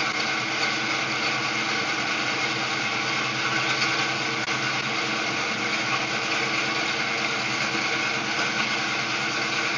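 Supercharged Pontiac GTO V8 idling steadily after a cold start, an even mechanical drone with no change in revs.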